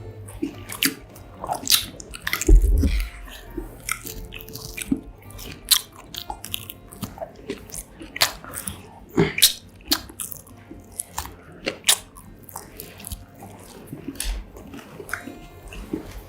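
Close-miked eating: crunchy bites and chewing of a mozzarella corn dog, with irregular sharp crackles throughout. A louder low thump comes about two and a half seconds in.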